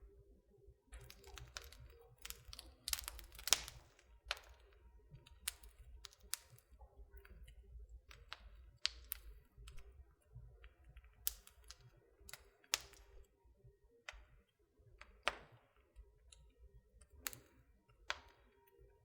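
Wood fire in a fireplace crackling, with irregular sharp pops and snaps. They come thickest in the first few seconds, the loudest pop about three and a half seconds in, then turn sparser and scattered.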